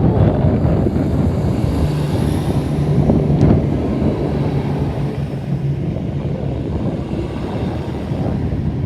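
Strong wind buffeting the microphone with a low rumble, over a Class 170 Turbostar diesel multiple unit pulling away, its engines giving a steady low hum that fades after about six seconds.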